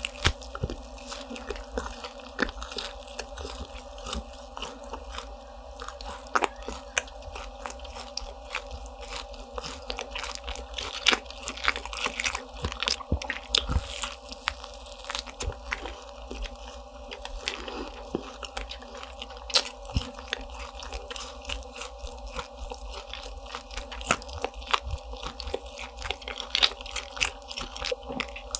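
Close-miked biting and chewing of crisp croffles, croissant waffles, with many irregular sharp crackly crunches.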